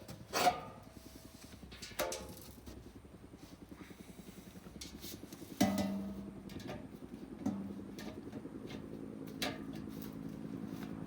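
Sharp metallic clanks of exhaust pipe and muffler parts being handled, about five spread out, two of them leaving a short ringing tone, over a steady low hum.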